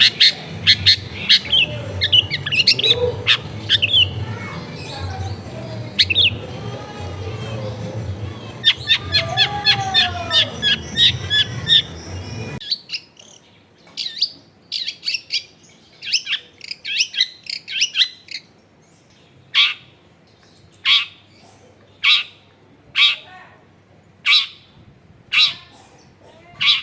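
Long-tailed shrike (cendet) singing: a rapid chattering run of high chirps over a low background hum. About halfway in the sound changes abruptly to a cleaner stretch of separate harsh calls, which settle into a steady repeat about once a second.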